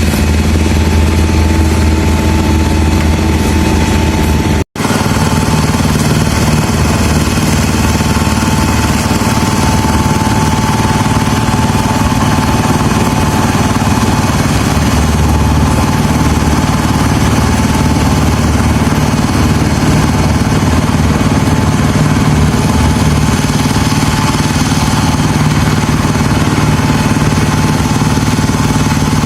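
Small engine of concrete-pouring machinery running steadily at a constant speed. The sound drops out for an instant about five seconds in and comes back with a somewhat different low pitch.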